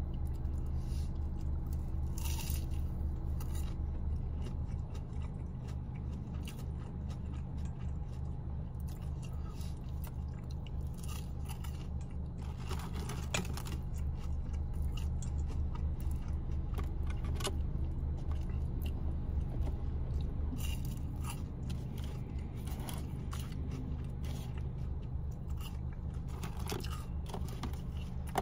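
Chewing and biting into fried McDonald's chicken nuggets, with irregular small crunches and clicks, over a steady low hum.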